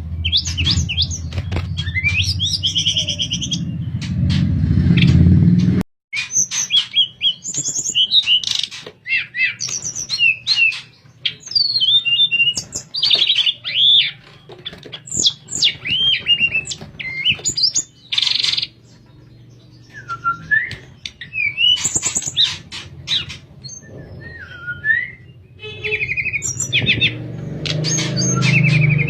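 Tledekan songbird singing a string of clear, flute-like whistled phrases mixed with quick chirps and sliding notes, with short pauses between phrases.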